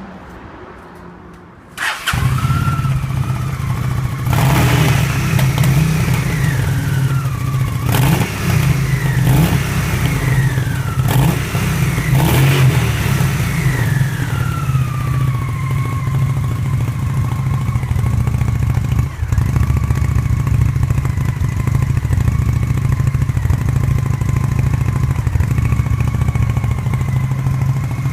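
2001 Honda Shadow ACE VT750's V-twin engine through its stock exhaust. It starts about two seconds in, is revved with five quick throttle blips that each drop back, then settles into a steady idle. The bike has a clogged carburettor jet.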